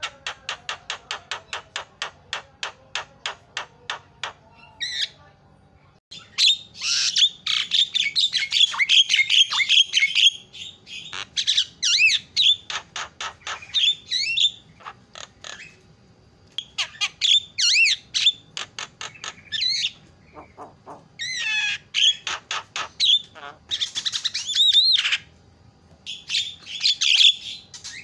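Javan myna (jalak kebo) singing: a rapid run of clicking notes, about eight a second, then loud bursts of harsh chatter mixed with whistled slides, broken by short pauses.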